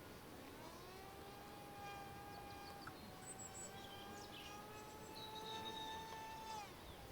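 Faint, steady whine of an electric RC plane motor at a distance. It rises in the first second, holds an even pitch, then drops away near the end as the throttle is cut. A few short high bird chirps sound above it.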